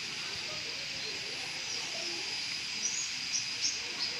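Outdoor ambience: a steady high hiss with a constant thin high tone, and a few short high bird chirps in the second half.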